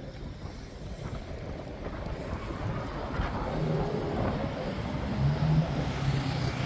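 A vehicle running and growing steadily louder as it comes closer, with a steady low hum joining about halfway in.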